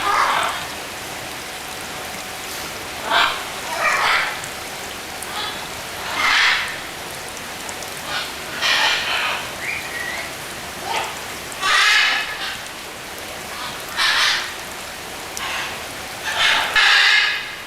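Harsh, raspy bird squawks, short calls about half a second long repeated every second or two, with a louder cluster near the end.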